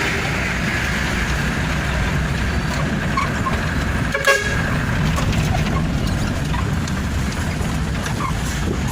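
Truck running on the road, a steady low drone of engine and road noise, with one short horn toot about four seconds in.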